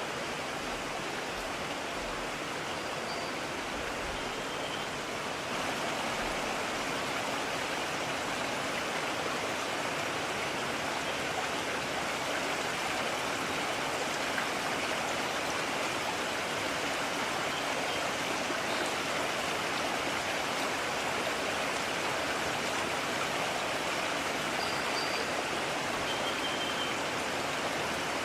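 Mountain stream rushing over stones, a steady even rush of water.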